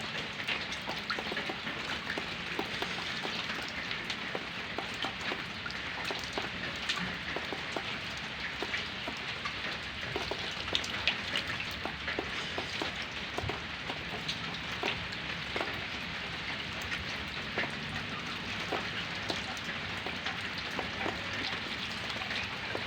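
Rain falling steadily, a dense patter of drops striking surfaces.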